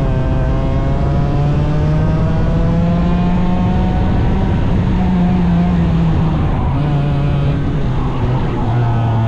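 Small 100cc racing engine running hard under load. Its pitch climbs slowly, falls back about four seconds in, climbs again and drops lower near the end.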